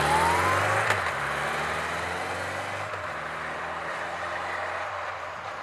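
Honda CB1100 EX's air-cooled inline-four motorcycle engine pulling away: its note rises at first, there is a short click about a second in, then the engine sound fades steadily as the bike moves off.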